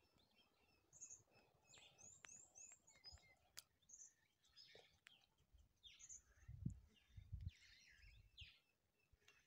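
Near silence with faint, scattered bird chirps, including a quick run of short descending chirps about two seconds in. A few soft low thumps come around seven seconds in.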